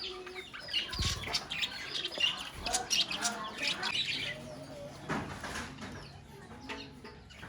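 A colony of budgerigars chirping and warbling, many birds at once, the chatter thinning out about halfway through. A brief soft thump about a second in.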